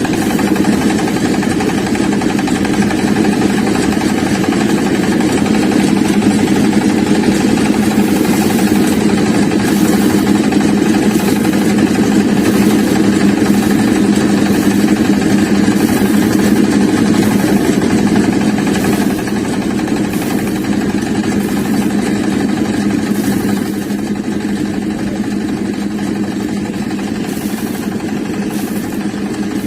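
Small motor of a miniature model rice thresher running steadily with a continuous buzzing hum. It steps down a little in loudness twice, about two-thirds of the way through and again near the end.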